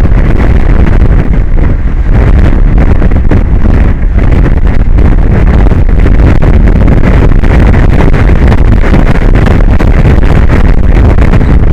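Strong wind buffeting the microphone: a loud, steady rumbling roar with no pitch to it.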